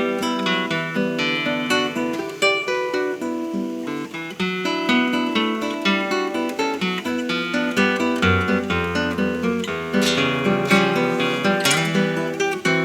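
Solo acoustic classical guitar playing a tango, with plucked melody and bass notes and some strummed chords.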